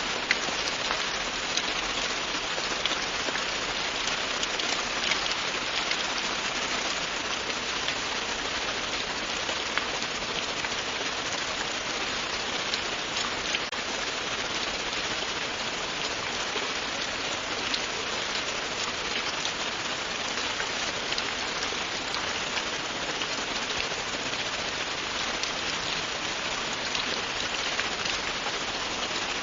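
Steady, continuous rain falling on a surface, a dense even hiss with many small drop ticks throughout.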